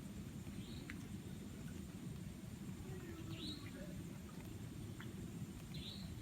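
Outdoor ambience: a steady low rumble with three short, high chirps from a bird spaced a few seconds apart, and a couple of faint sharp ticks.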